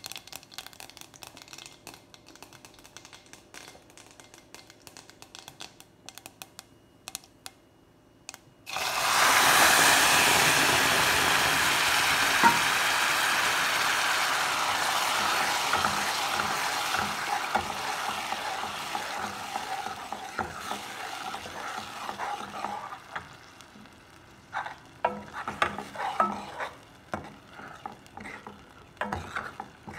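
Tempering spices crackling faintly in hot oil in a steel pan; about nine seconds in, tomato paste goes into the oil with a sudden loud sizzle that slowly dies down. Near the end a steel ladle scrapes and clinks against the pan as the paste is stirred.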